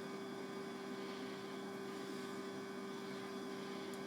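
Davey D75A1 submersible sump pump running with a steady electric hum as it pumps the pit down.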